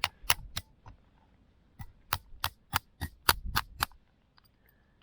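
Sharp metal-on-metal taps: a chisel struck again and again with a wrench in place of a hammer, cutting a new shear key for the outboard's water-pump impeller. A few taps come early, then a steady run of about eight at roughly three a second, stopping about a second before the end.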